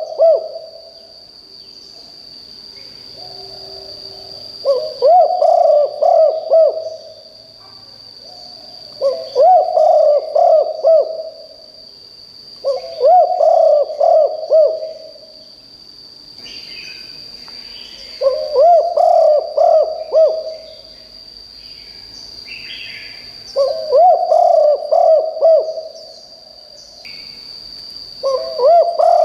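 Spotted dove cooing: a repeated phrase of bubbling coos, each about two seconds long, returning every four to five seconds. A steady high-pitched whine runs underneath, and other small birds chirp faintly between the phrases.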